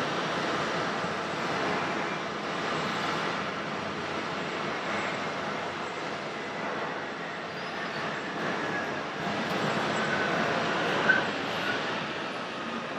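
Jet airliner engine noise heard from a distance: a steady rush with a faint thin whine, and a short sharp click about eleven seconds in.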